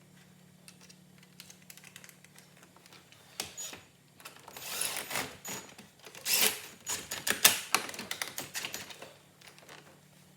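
Plastic dash trim and wiring of a 2006 Corvette being handled and pressed back into place: a run of quick clicks, rattles and rustling that starts a few seconds in and is loudest just past the middle.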